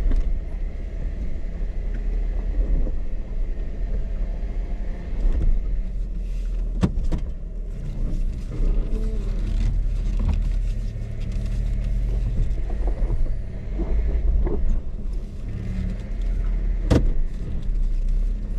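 A four-wheel-drive vehicle's engine running steadily at low speed as it creeps through a tight hairpin turn, with a sharp knock about seven seconds in and another near the end.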